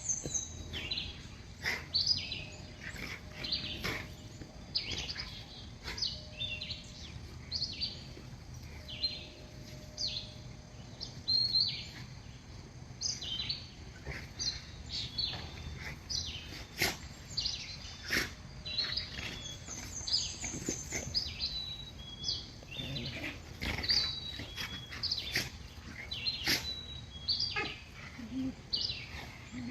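Wild songbirds chirping and calling, many short high chirps overlapping several times a second, with a couple of quick high trills and occasional sharp clicks.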